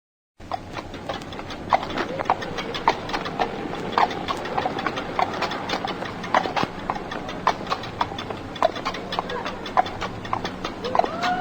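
Horse hooves clip-clopping, many quick irregular clops, starting abruptly just under half a second in, with a faint rising-and-falling tone near the end.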